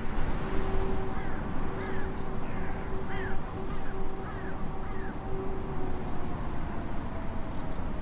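Birds giving a run of short, curving calls over a steady low rumble, with a long steady held tone underneath that fades out near the end.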